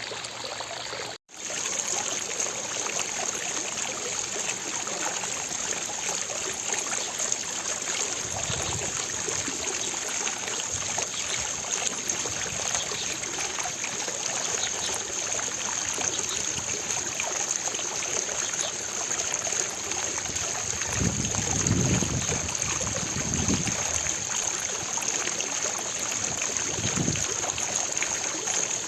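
Fountain water splashing steadily, an even rushing spray with no pauses, apart from a brief dropout about a second in. A few low rumbles come through in the later part.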